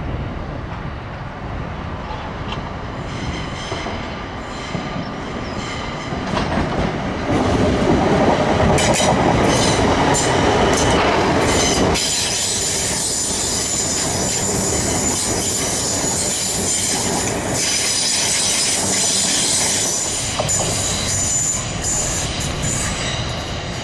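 Lumo Class 803 electric train moving off along curved track, its wheels squealing high-pitched on the curve. The running noise swells over a few seconds about a third of the way in and peaks with a run of sharp wheel clicks over the rail joints near the middle.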